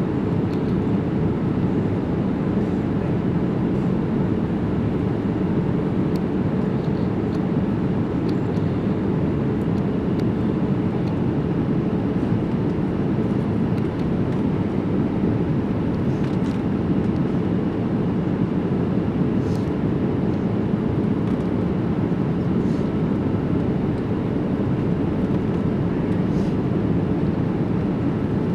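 Boeing 787 cabin noise in flight: a steady low rush of engines and airflow, with a faint constant hum.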